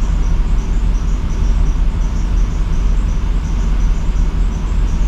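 Chrysler 4.7-litre V8 idling steadily with its bad coil pack replaced, running without the misfire.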